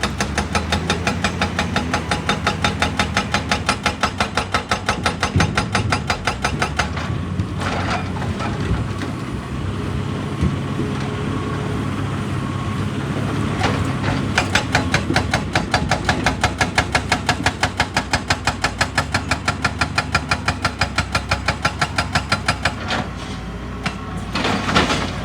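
Excavator-mounted hydraulic rock breaker hammering in a fast, even rhythm over the excavator's running diesel engine. The hammering stops about seven seconds in, leaving the engine running, picks up again about halfway through, and stops a few seconds before the end.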